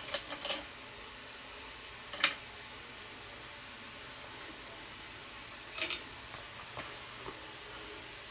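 Scattered small hard clicks and taps of a hole gauge and measuring tools being handled at the bore, the loudest a single sharp click about two seconds in, over a steady background hum like a fan.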